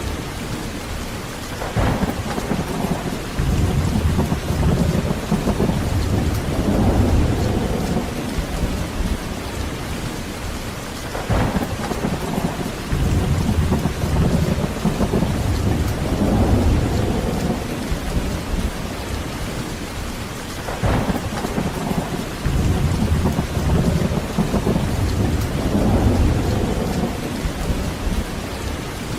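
Heavy rain falling steadily with thunder. Three times a sharp crack is heard, each followed a second or two later by a long low rolling rumble that swells and fades.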